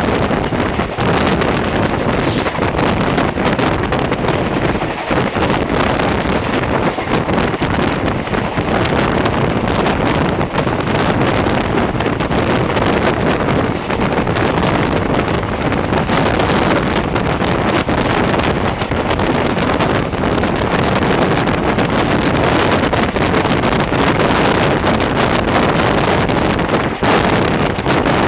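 Passenger train running at speed, heard from on board: a steady rush of running noise with heavy wind buffeting the microphone.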